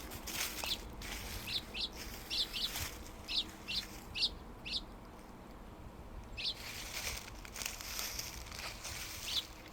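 Small woodland birds giving short, high chirps, often in quick pairs, mostly in the first half, with a couple more near the end. Soft rustling footsteps on leaf-covered steps run underneath.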